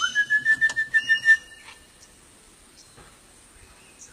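A person whistling to call wild parrots: one note that slides up and is then held with a quick pulsing warble for about a second and a half before stopping.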